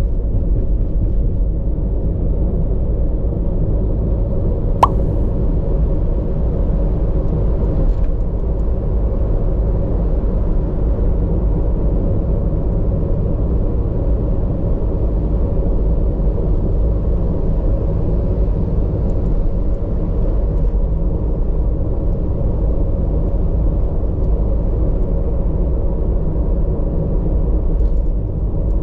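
Steady low rumble of a running vehicle engine, with one sharp click about five seconds in.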